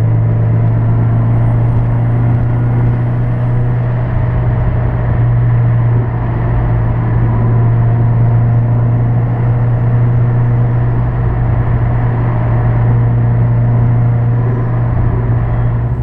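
Audi A4 1.8T turbo four-cylinder running at a steady speed with a constant, unchanging low drone and no revving.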